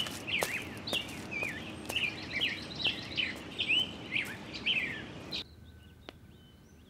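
Small birds chirping, a string of short calls that rise and fall, with scattered clicks. It cuts off sharply about five seconds in, leaving quiet room tone.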